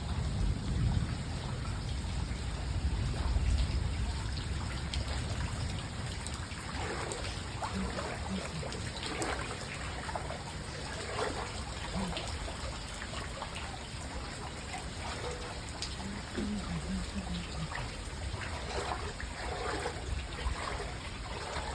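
Floodwater trickling and running steadily, a continuous wash of water sound, with a heavier low rumble in the first few seconds.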